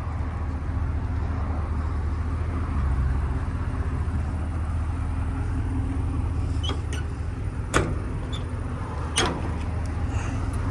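Steady low rumble with a few sharp metallic clicks and knocks in the second half, from fittings being handled on a steel utility truck bed.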